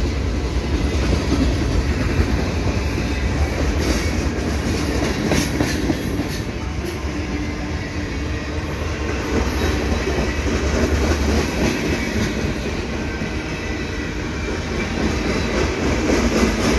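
Freight cars of a slow-moving freight train rolling past at close range: a steady rumble of steel wheels on rail with scattered clicks and clatter from the wheels and cars. The deep rumble eases a little about two-thirds of the way through.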